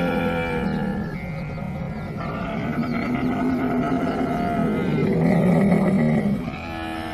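Camel calling: drawn-out, rough, pulsing calls running into one another, loudest about five to six seconds in, then dropping off.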